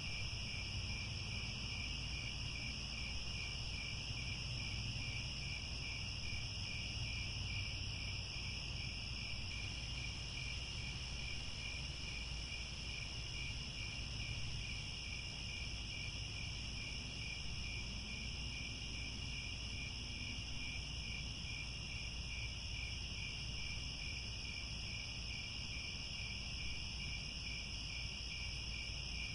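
A dense chorus of crickets chirping steadily, several layered trills at different pitches, over a low steady rumble.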